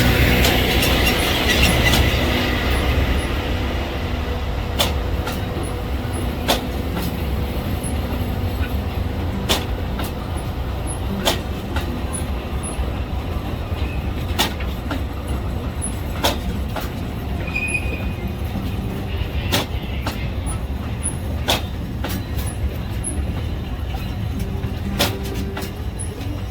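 Alishan Forest Railway train running on the line: a steady low rumble with irregular sharp clacks every second or two, loudest in the first couple of seconds.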